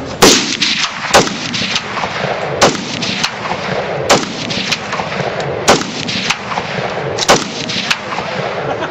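Barrett .50 calibre rifle firing a string of about six heavy shots, roughly one every second and a half, with quieter sharp reports and echoes between them.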